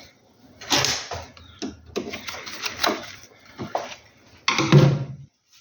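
Clicks, knocks and rustling of a PV cable being handled and plugged into the solar inverter's PV input. There are several quick clatters, with the loudest, fullest knock near the end.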